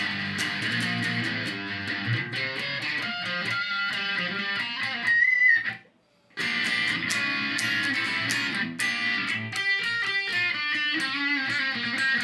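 Electric guitar played through a Korg A5 multi-effects processor, with the compressor's sensitivity just raised: a run of strummed and picked notes. The playing stops briefly about halfway through, then carries on.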